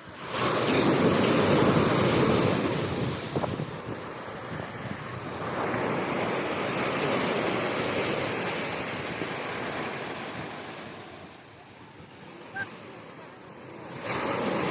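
Black Sea storm surf breaking on the beach: a wave crashes loudly at the start, a second wave rushes in and washes out across the middle, and another breaks near the end.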